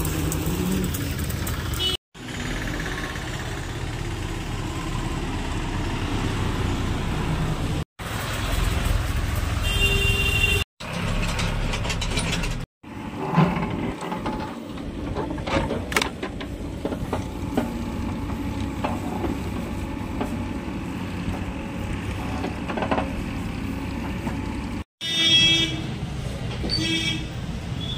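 Tractor engines running with a steady low rumble, and vehicle horns honking briefly a few times, most around ten seconds in and near the end. The sound breaks off abruptly several times.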